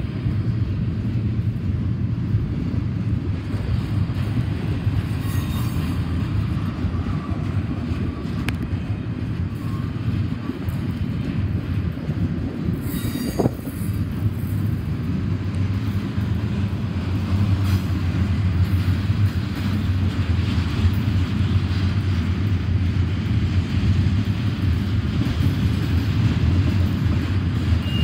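Double-stack container train's well cars rolling past at close range: a steady low rumble of steel wheels on rail, with one sharp clank about halfway through.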